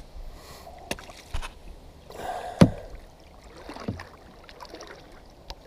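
Kayak paddling: paddle blades splashing in moving water, with several sharp knocks, the loudest about two and a half seconds in.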